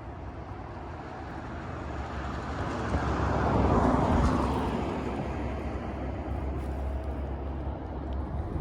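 A car passing by: tyre and engine noise swells to a peak about four seconds in, then fades away.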